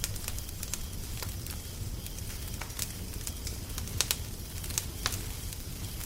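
Wood fire crackling, with irregular sharp pops and snaps over a steady low rumble; a couple of louder pops come about four seconds in.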